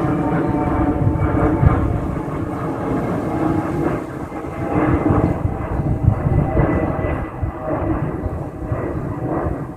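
Jet airliner climbing out after takeoff, its engine noise a loud steady rumble with a faint whine on top; the high end fades away about halfway through as the aircraft moves off.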